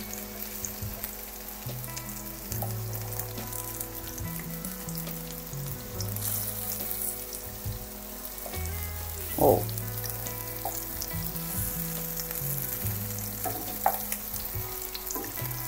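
Syrniki (cottage cheese pancakes) frying in oil in a nonstick pan, a steady sizzle, with occasional scrapes and taps as a fork and wooden spatula turn them. A brief louder sound comes about nine and a half seconds in.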